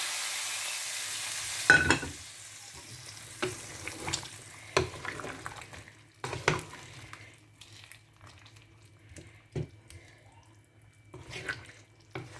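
Calamari rings frying in hot oil, a loud sizzle that fades and drops off about two seconds in with a sharp knock in the pan. After that comes a quieter sizzle with scattered knocks and clinks of stirring.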